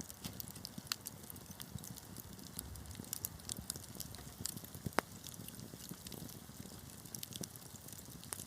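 Wood fire crackling, with frequent small pops over a soft low rumble of flames; a louder pop about a second in and another about five seconds in.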